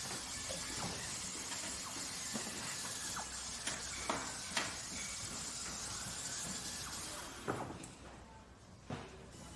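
Workshop or factory machinery ambience: a steady hiss with scattered sharp clicks and knocks. After a louder knock about three quarters of the way through, the steady hiss drops away.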